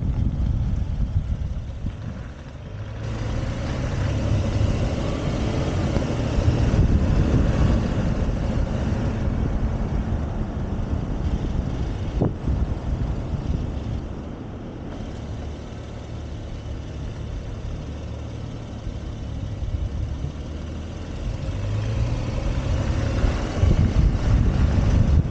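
2017 Honda Accord Coupe V6 being driven, its engine and exhaust note rising in pitch twice as it accelerates, once a few seconds in and again near the end, over steady wind and road noise.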